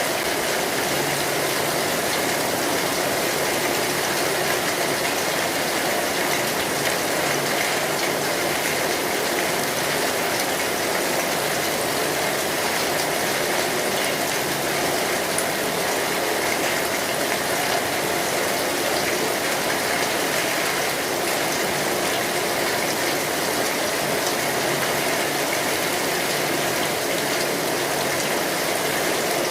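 Steady rain falling on a metal roof: a constant, even hiss of drops without let-up.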